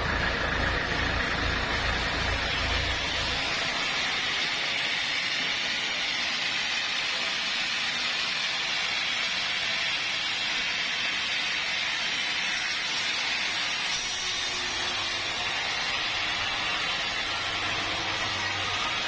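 A steady mechanical hiss, with a low engine rumble underneath that stops about three and a half seconds in.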